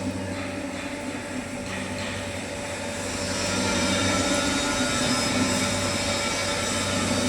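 Metalworking lathe running steadily with a hum and a whine of several steady tones, growing a little louder about three seconds in.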